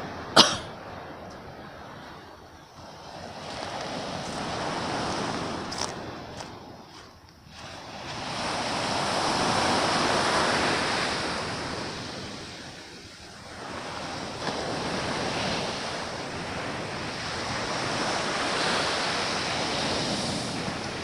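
Sea waves breaking and washing ashore, the surf swelling and fading in slow surges every few seconds. A sharp click, the loudest thing heard, comes just after the start.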